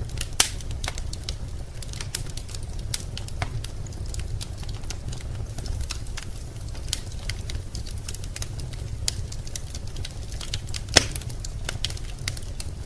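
Wood fire burning in a fireplace, crackling with irregular sharp pops and snaps, two louder ones about half a second in and near the end, over a steady low rumble.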